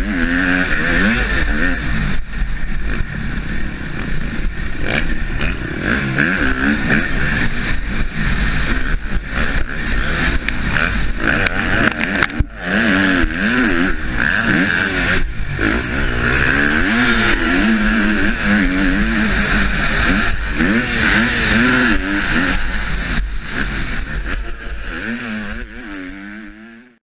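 Husqvarna motocross bike's engine, heard from the rider's helmet camera, revving up and down again and again as it is ridden hard around the track, with scattered knocks. The sound fades out near the end.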